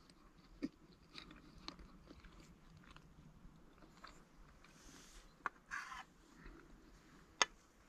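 Faint sounds of a person chewing a mouthful of food, with a few sharp clicks.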